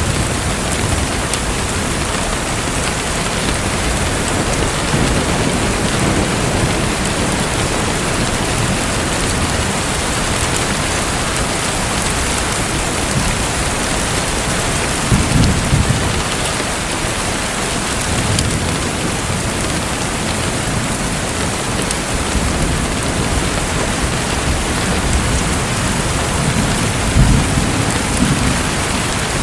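Steady rain-like water noise, an even hiss, with a few short low rumbles rising out of it about five, fifteen and twenty-seven seconds in.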